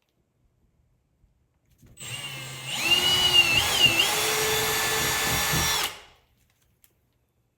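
Power drill boring a mounting hole: it starts about two seconds in, its whine wavers and dips under load, then runs steady and stops about six seconds in.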